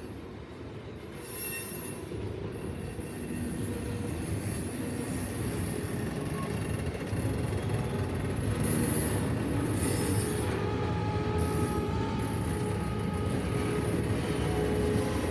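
A train rolling slowly through the curved track of a wye, its steel wheels squealing against the rails as the flanges grind through the curve. The rumble grows steadily louder, and thin, steady squeal tones come in about halfway through.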